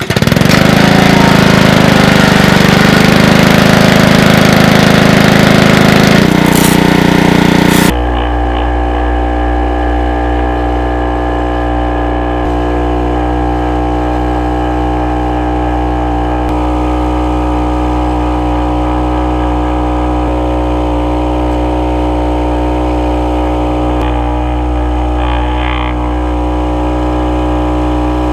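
A small engine running at a steady speed. For about the first eight seconds a loud hissing rush sounds over it, then cuts off suddenly, leaving the engine running on alone.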